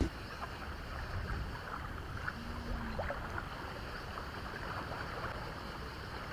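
Strong wind buffeting the microphone outdoors: a steady, rumbling noise, with faint scattered ticks.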